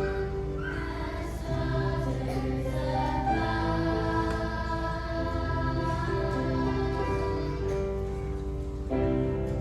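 A children's choir singing a slow song with instrumental accompaniment, on long held notes.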